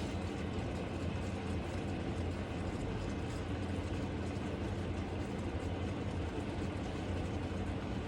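Diced chicken cooking in a pan: a steady sizzle over a constant low hum.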